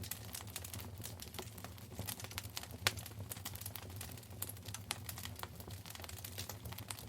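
Wood fire burning in a fireplace, crackling with irregular sharp pops and snaps, one louder pop a little before three seconds in, over a faint steady low hum.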